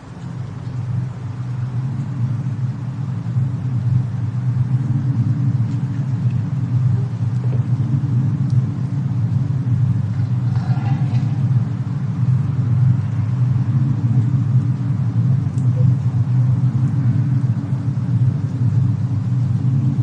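Steady low rumble of a fireplace-and-snowstorm ambience track, fading in over the first couple of seconds, with a few faint crackles.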